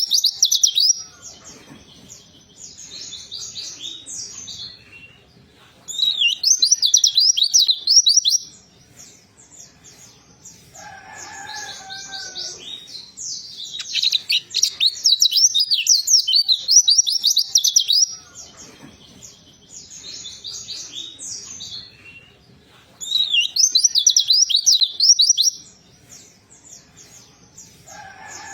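White-eye (pleci) singing in loud bursts of rapid, high twittering chatter, four times, with softer twittering between the bursts. A lower, separate call sounds once about eleven seconds in.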